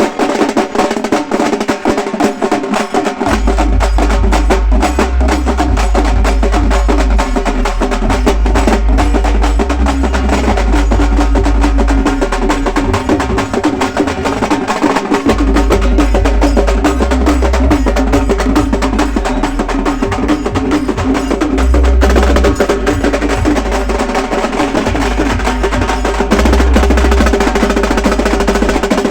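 Halgi frame drums played loud and fast in a dense, rolling rhythm by a group of drummers. A deep low drum comes in about three seconds in and keeps going under it.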